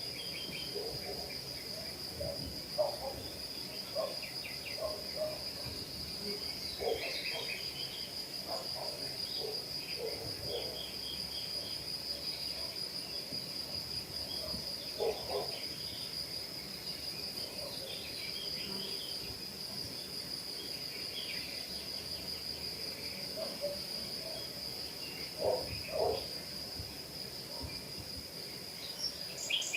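Outdoor ambience of a steady, high-pitched insect trill, with scattered bird chirps and short calls throughout.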